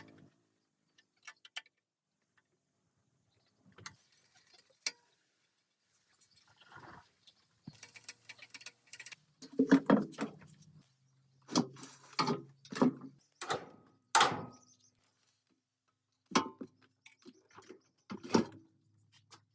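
Scattered clinks and knocks, a few at first and thicker in the second half, with a brief low hum beneath some of them around the middle.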